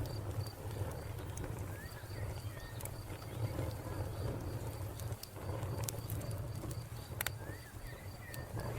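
Wood fire crackling, with sharp pops every second or two over a low steady rumble. Crickets chirp in an even, unbroken pulse behind it, and a bird gives a few short chirps twice.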